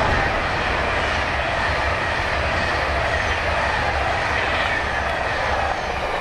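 A train running past on the line: a steady, loud rumble of wheels on rail, with a faint high whine slowly falling in pitch.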